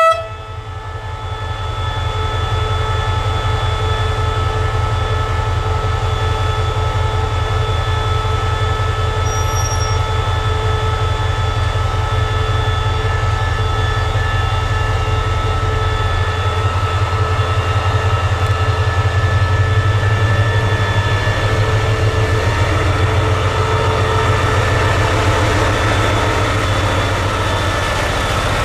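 Train of ex-JR 14 and 24 series sleeper coaches running steadily on the rails: a continuous low rumble with several steady whining tones over it, growing a little louder past the middle.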